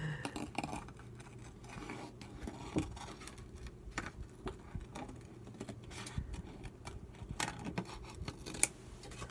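Scissors cutting paper: a run of irregular short snips and small clicks.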